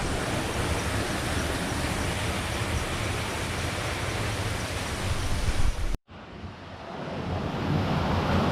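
Water rushing steadily along a village falaj irrigation channel, with wind buffeting the microphone. The sound cuts out abruptly about six seconds in and swells back up within a couple of seconds.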